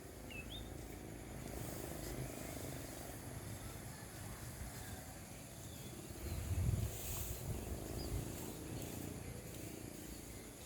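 Faint outdoor background: a steady low rumble with a few short high chirps near the start, and a brief swell of rumble about six and a half seconds in.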